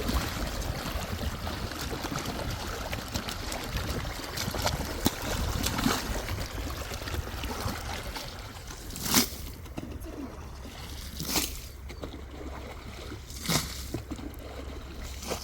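Water sloshing and trickling during hand washing at a spring, then three sharp splashes about two seconds apart in the second half, the first the loudest.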